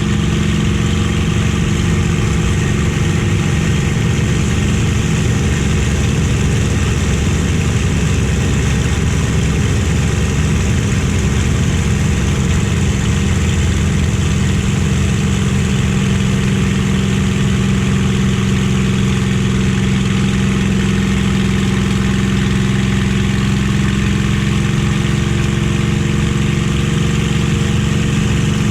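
Merlin V12 piston aero engine of a warbird fighter running at steady power, heard as a constant loud drone from on board the aircraft.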